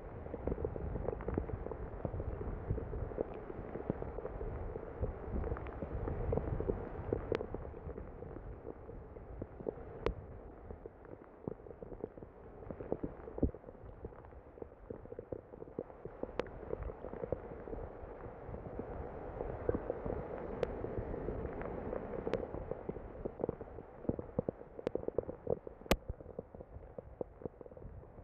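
Storm rain falling steadily, with drops ticking sharply on the phone and a low rumble that swells and fades.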